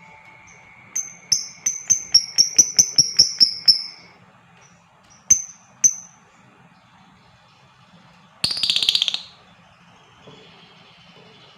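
Lovebirds calling: a quickening run of sharp, high chirps, two more single chirps, then a short, rapid, rattling trill.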